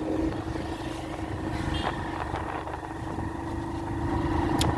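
A motor vehicle's engine running at a steady pitch over low road rumble while travelling.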